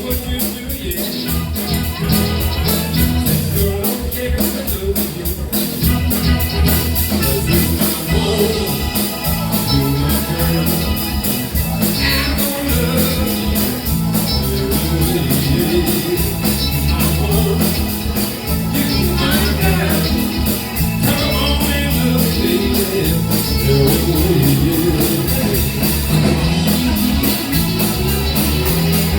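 Live band playing a song with a steady beat and a heavy bass line.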